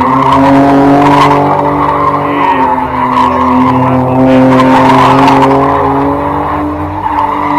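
A BMW E30's engine held at high revs, its pitch steady with small wavers, over the noise of tyres squealing and skidding.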